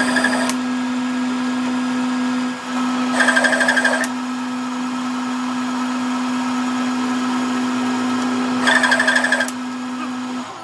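A power tool's electric motor running at a steady pitch, with three short bursts of fast rattling: at the start, about three seconds in and about nine seconds in. The motor stops just before the end.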